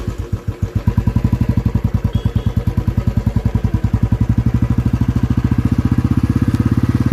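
Royal Enfield motorcycle engine running at a steady speed, a fast, even beat of exhaust pulses, a little stronger near the end.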